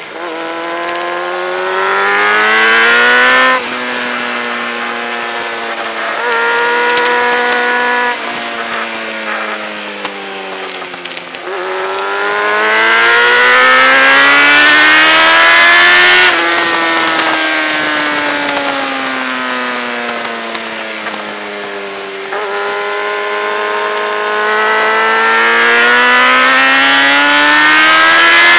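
Motorcycle engine at full track pace, revving up through the gears with sudden pitch drops at the upshifts, then falling away as it slows for corners and climbing again on the exits. The longest climb ends in a sharp drop about halfway through, and it is rising again near the end.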